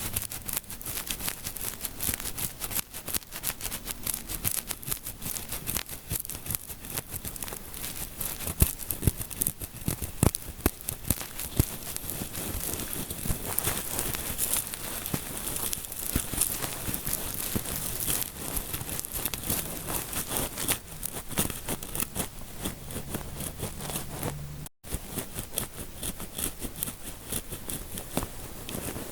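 Fingertips scratching and rubbing close to the microphone for an ASMR scalp massage, a dense, rapid crackling with hundreds of small scratches. The sound cuts out for an instant about 25 seconds in.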